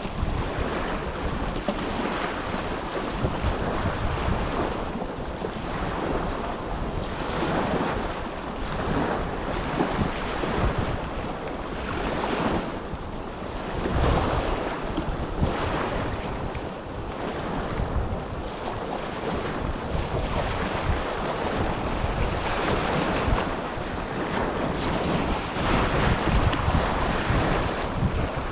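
Small waves from the Dead Sea washing and breaking on the shore, a steady wash that swells and eases every few seconds, with wind buffeting the microphone.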